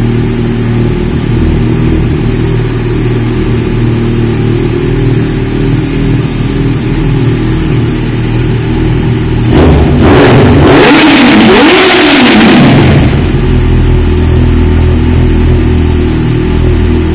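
Yamaha XJ6 Diversion's 600 cc inline-four motorcycle engine idling through an Akrapovic exhaust. It is revved once about ten seconds in, the pitch rising and falling over about three seconds, then settles back to a steady idle.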